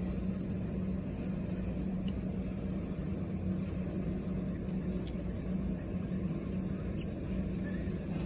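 Steady low mechanical hum with a constant drone, like a car idling heard from inside the cabin. A few faint, short ticks sound over it.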